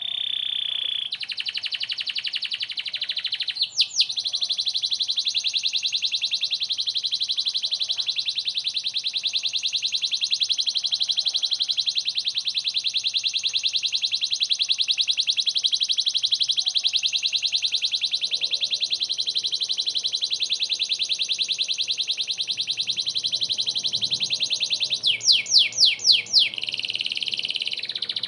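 Domestic canary singing a long, very rapid rolling trill, held for over twenty seconds without a break, with a few quick downward-sweeping notes about four seconds in and a burst of them near the end.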